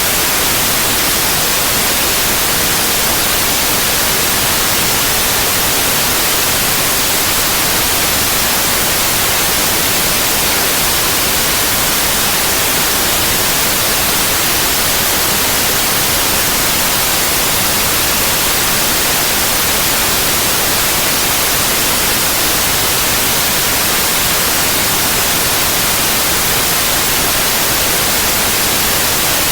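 Steady white noise: an even, unchanging hiss spread across the whole range, loudest in the highs, with no interruptions.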